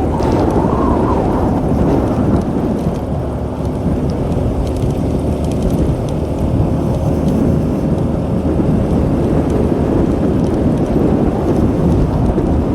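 Motorbike riding along a forest track: the engine running under loud, steady wind rumble on the microphone.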